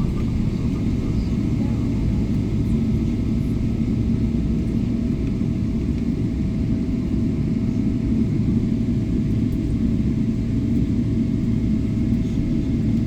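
Jet airliner during takeoff: a steady, loud, low rumble of engines and airflow with a faint steady whine on top, holding even throughout.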